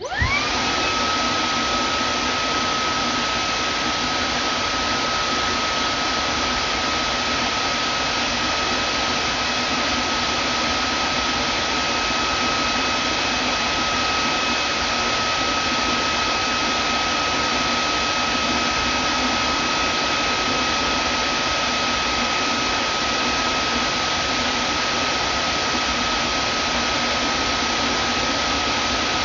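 Vacuum cleaner switched on: its motor whine rises quickly to a steady high pitch over a loud rush of air, then runs on unchanged.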